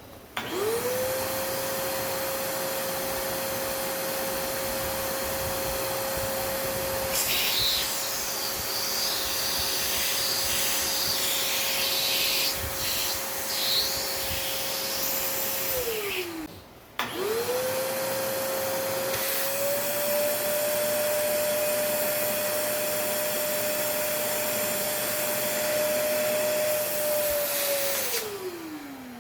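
Fujihama wet and dry vacuum cleaner switched on: its motor spins up to a steady whine with a rush of air. In the middle there is a stretch of crackling rattle as things are sucked up. The motor winds down, starts again with its pitch stepping slightly higher partway, and winds down near the end.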